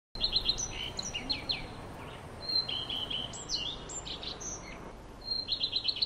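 Songbirds chirping and calling, with several overlapping call types: short downward-sweeping chirps, steady whistled notes and higher thin notes. Near the end comes a quick run of about ten chirps in under a second.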